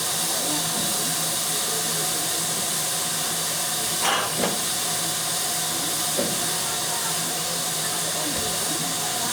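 Steam locomotive standing with a steady hiss of escaping steam and a faint steady hum underneath. A few brief louder sounds come about four seconds in and again about two seconds later.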